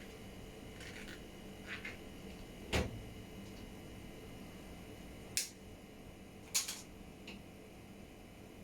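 A handful of short, separate clicks and knocks, about six in all and irregularly spaced, with the loudest one about a third of the way in carrying a dull thud. They sound over a faint steady hum.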